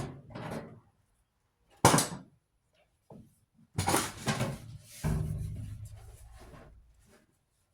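Knocks and clatter from the panels of a clothes dryer being handled during disassembly. There is a sharp knock about two seconds in and a burst of clattering near four seconds. A heavier hit about five seconds in leaves a low rumble that dies away over about two seconds.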